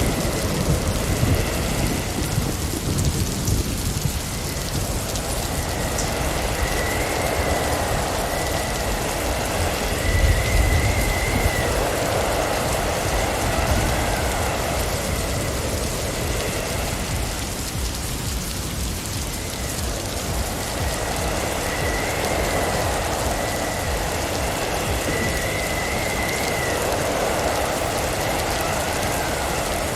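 Blizzard ambience: a steady hiss of wind-driven snow, with gusts that swell and fade every few seconds and a faint whistle that rises and falls. The same pattern comes round again about every fifteen seconds.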